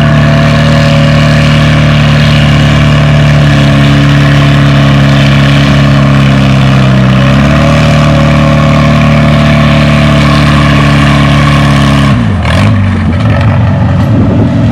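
Vintage farm tractor engine working hard under load as it pulls the weight-transfer sled, holding a steady note. About twelve seconds in the note drops sharply and turns uneven as the engine is pulled down.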